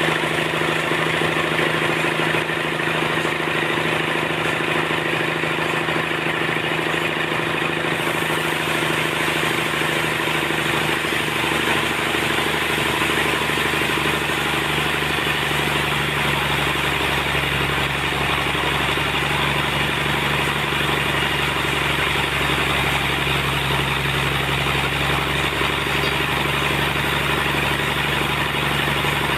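Sawmill machinery running steadily with a constant engine-like hum; the low rumble grows stronger about halfway through.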